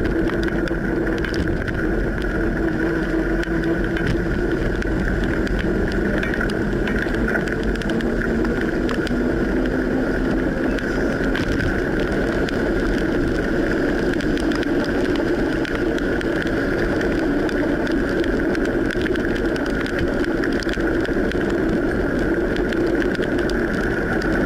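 Bicycle riding on a wet road: steady tyre and road noise, with a constant hum running through it.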